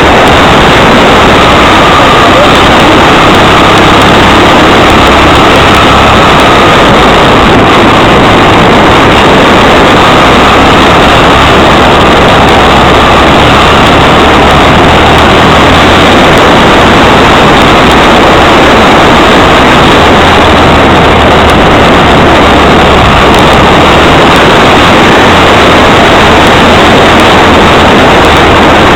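Yamaha XTZ 750 Super Ténéré's parallel-twin engine running while the bike is ridden along a dirt track, heard as a loud, steady noise of engine and riding.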